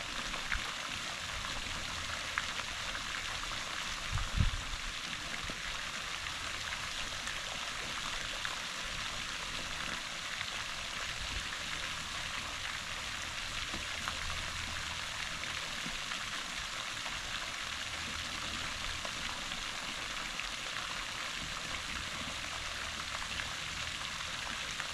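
Steady hiss of surf washing on the beach, with one short low thump about four seconds in.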